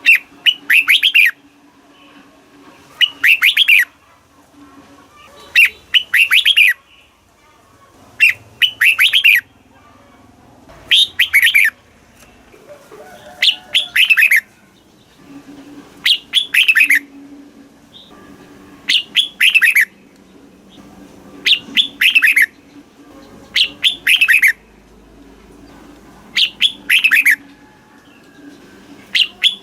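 Red-whiskered bulbul singing: a short phrase of quick, falling notes, repeated about every two and a half seconds, around a dozen times.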